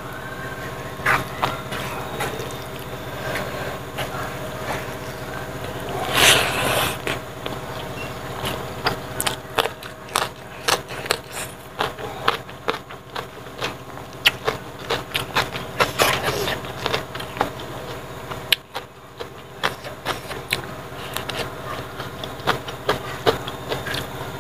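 Close-up wet chewing and lip-smacking of a person eating rice and pork with the hands, a run of short sharp smacks and clicks, with one louder burst about six seconds in. A steady low hum runs underneath.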